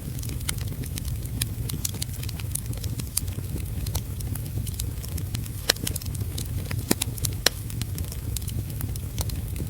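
Wood fire crackling in a fireplace, with frequent sharp snaps and a few louder pops past the middle, over a steady low rumble and the hiss of heavy rain.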